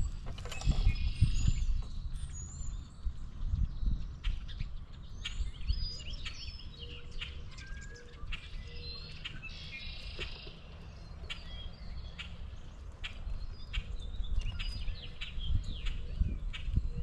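Outdoor birds chirping and calling in short squeaks and sharp clicks, many overlapping, over a low rumble with thumps that is heaviest in the first couple of seconds.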